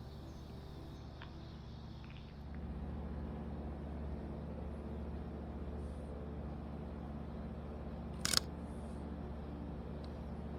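A camera shutter clicks once, a quick double click, about eight seconds in, over a steady low background hum that gets a little louder about two and a half seconds in.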